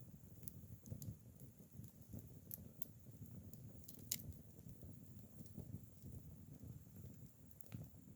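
Acacia-wood campfire burning quietly, with a low rumble of flames and a handful of sharp crackles and pops, the loudest about four seconds in.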